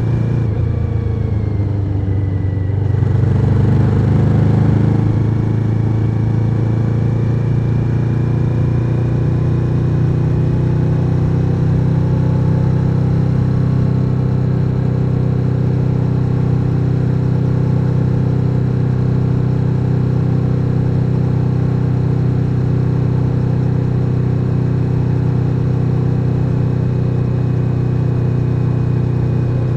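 Suzuki SV1000N's 90-degree V-twin engine under way. The note drops off over the first few seconds, pulls up louder about three to five seconds in, then settles into a steady cruise.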